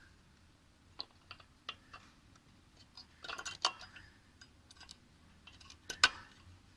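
Light clicks and taps of new brake pads and their brackets being handled and fitted into a Yamaha XT600e's rear brake caliper. The clicks come a few at a time, with a quick rattling cluster about three seconds in and a single sharp click about six seconds in.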